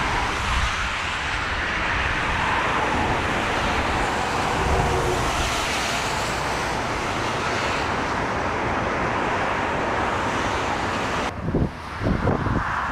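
Steady roar of an airliner's jet engines over strong wind. About eleven seconds in, the sound changes to gusts of wind buffeting the microphone.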